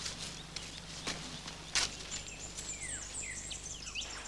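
Wild birds calling: repeated short chirps that slide down in pitch and a high, thin, wavering whistle in the second half, with a few sharp clicks, the loudest a little under two seconds in.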